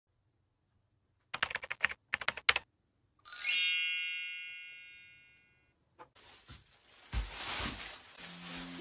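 Two quick runs of keyboard typing clicks, then a single bell ding that rings and fades over about two seconds. Near the end a hissing noise comes in and music starts.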